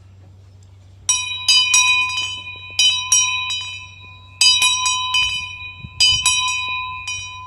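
A small metal bell struck repeatedly, starting about a second in, in quick clusters of two or three strikes, each ringing on with a clear bright tone.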